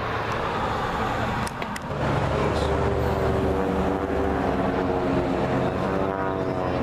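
An engine running with a steady pitched hum that grows louder about two seconds in, its pitch wavering slightly near the end.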